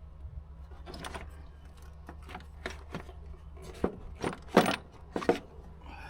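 Metal clinking and knocking, sharp and irregular, growing busier in the second half, over a low steady hum.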